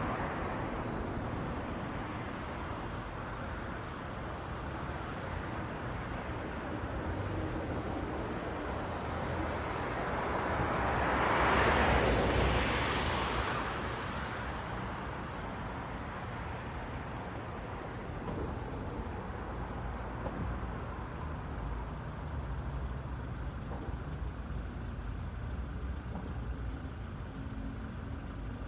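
City road traffic at night: a steady rumble of vehicles, with one vehicle passing close by, growing louder toward the middle and fading away again.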